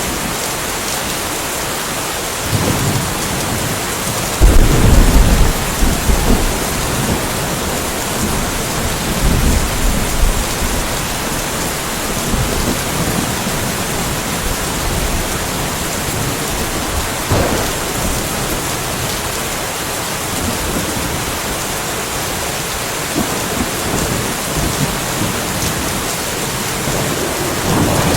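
Steady rain falling, with rolls of thunder rumbling low several times; the loudest roll comes about four and a half seconds in and lasts a couple of seconds.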